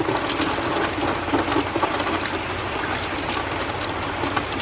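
Rain coming down, with many individual drops ticking on a hard surface close by over a steady hiss. It builds up just as it starts, marking the leading edge of a thunderstorm's rain.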